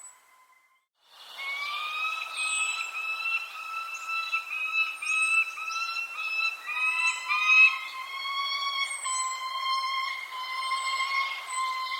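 Birds chirping in short, high, down-slurred notes over a loud, long pitched whistling tone. The tone starts abruptly after about a second of near silence and steps down in pitch about halfway through.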